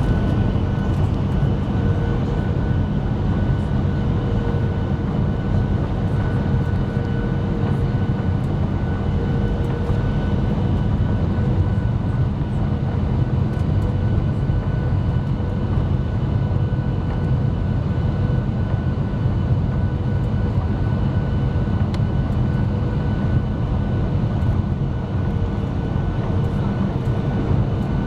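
Jet airliner cabin noise on approach: a steady low roar of engines and rushing air, with faint steady whining tones over it.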